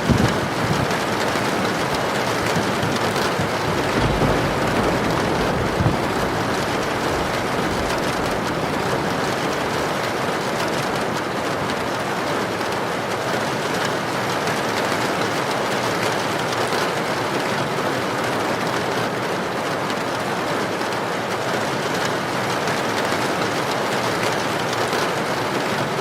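Heavy rain falling steadily as a dense, even hiss, with a few brief low rumbles in the first several seconds.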